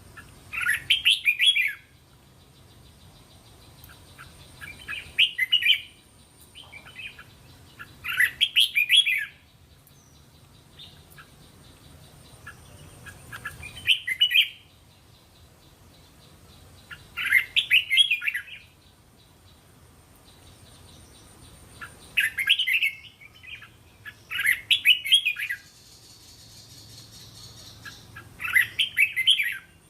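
Red-whiskered bulbul singing: short warbled phrases of about a second each, repeated eight times with pauses of a few seconds between them.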